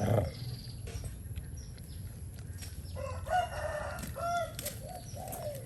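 A rooster crowing once, a long call of several arched segments that starts about three seconds in.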